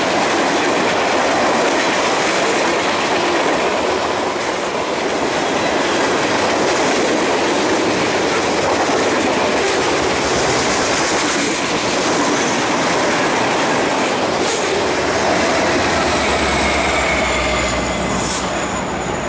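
Railroad cars rolling past, steady and loud, with wheels clacking over the rail joints and a faint wheel squeal near the end.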